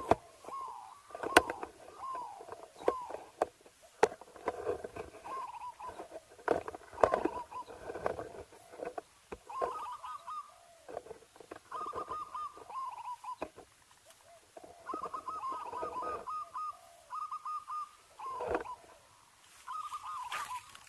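Zebra dove (perkutut) cooing: repeated short phrases of quick, rippling notes. Sharp clicks and rustling, mostly in the first half, come from handling.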